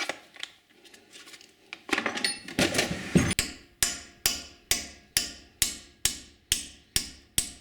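Hammer tapping a pin punch in steady blows, about two a second, each with a short metallic ring, driving a broken piece of pin out of a steel gear-shifter part. A few clattering knocks and scrapes of metal parts being handled come before the steady blows begin, about three seconds in.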